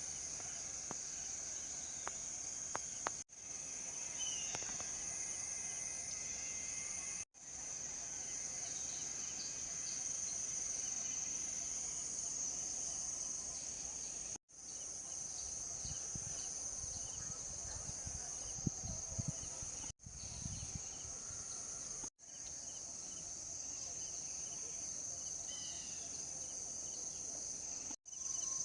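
A steady, high-pitched chorus of insects, with a few faint bird chirps. It is broken off for an instant several times. Some low rumbling comes partway through.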